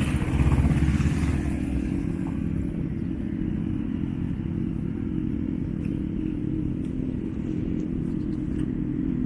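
A motor vehicle's engine running with a steady low rumble, a little louder for about a second near the start.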